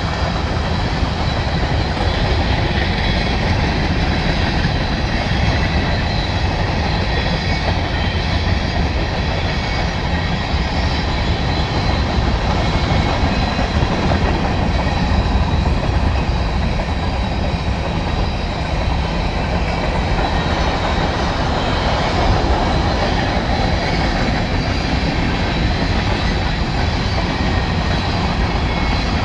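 Union Pacific manifest freight train's covered hopper cars rolling past, a steady noise of steel wheels on the rails.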